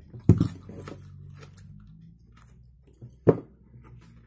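Close-miked chewing of food with the mouth closed, with a low hummed sound lasting about two seconds and two sharp, loud mouth clicks: one about a third of a second in and one about three seconds in.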